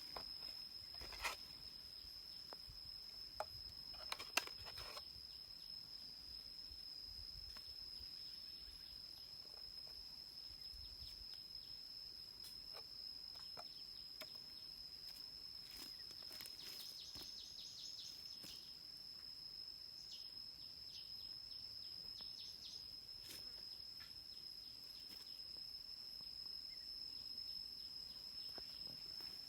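An insect singing one steady, high-pitched trill without a break. Scattered clicks and knocks sound over it, the loudest about a second and about four seconds in.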